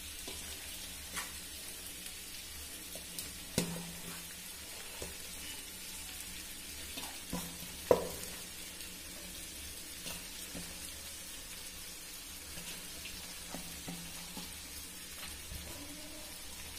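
Cooked rice being added bit by bit to a hot clay pot: a steady frying sizzle with scattered sharp knocks against the pot, the loudest about eight seconds in.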